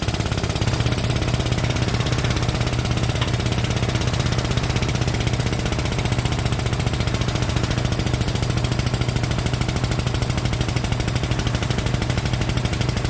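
A machine running steadily with a fast, even pulsing rattle and a low hum while the pulling rig puts tension on the car's front end.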